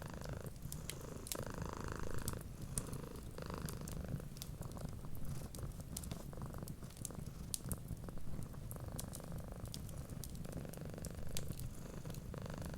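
Cat purring steadily, the purr swelling and easing with each breath, over many small sharp crackles from a wood fire.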